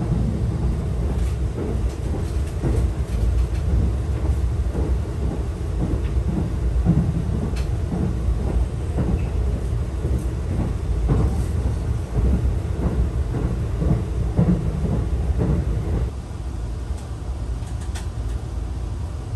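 Saphir Odoriko limited express, an E261-series electric train, heard from inside the passenger car while running: a low rumble with irregular clatter from the wheels on the rails. About sixteen seconds in it drops to a quieter steady hum as the train stands at a station.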